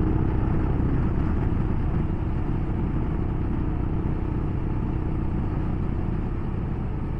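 Royal Enfield Himalayan's single-cylinder engine running steadily on the move, mixed with wind and road noise.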